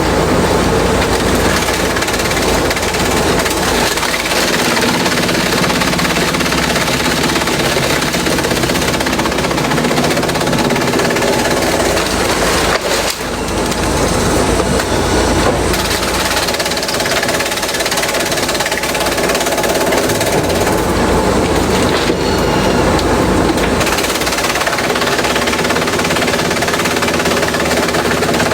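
Industrial shredder breaking up bamboo, running loud and steady: a dense, continuous rattle of the canes being chewed up over the machine's drone, with a brief dip about halfway through.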